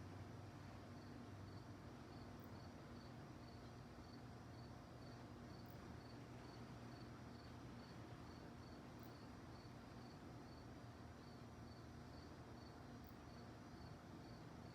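Crickets chirping faintly and steadily at night, about two high chirps a second, over a low steady hum.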